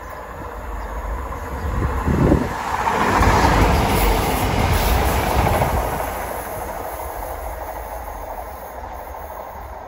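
A train passing by. The rush of noise builds over the first few seconds, is loudest in the middle, then fades away. A short low thump comes about two seconds in.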